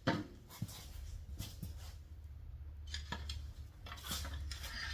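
Scattered light knocks and metallic clinks, about half a dozen over a few seconds, from car bumper parts being handled and set down, over a low steady hum.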